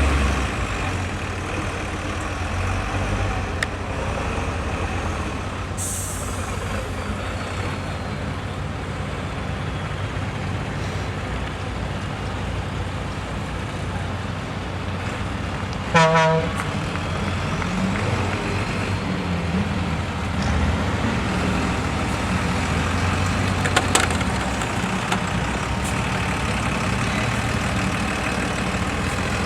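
Heavy diesel engine of a MAN truck-trial prototype running steadily at low revs. A brief hiss comes about six seconds in, and a short horn toot about halfway through.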